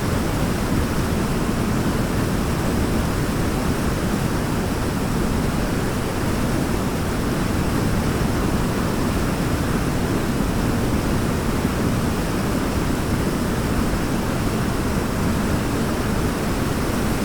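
Waterfall: water pouring and splashing in a steady, even rush, heaviest in the low range, with no change over time.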